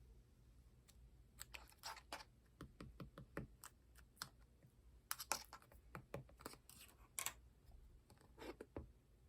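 Slime being squished and poked by hand: a faint, irregular run of small clicks and pops.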